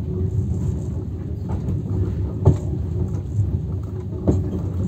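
Low, steady rumble of a moving passenger train heard from inside the carriage, with two sharp knocks about two seconds apart.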